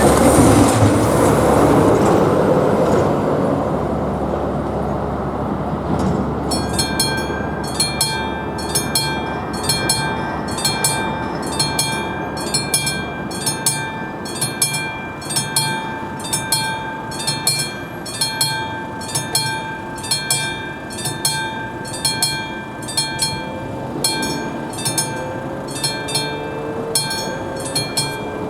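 Level-crossing warning bell begins ringing about six seconds in, a classic mechanical bell striking steadily at about one and a half strokes a second. It follows a loud rushing noise that fades over the first few seconds, and a low rising whine joins near the end.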